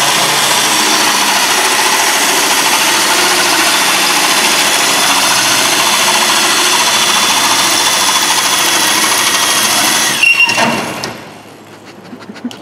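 A loud motor running steadily at constant speed, then cutting off about ten and a half seconds in with a couple of knocks, after which it is much quieter.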